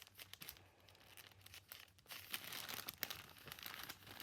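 Food packaging crinkling and tearing faintly as it is pulled open. Short scattered rustles, sparse at first and busier from about halfway through.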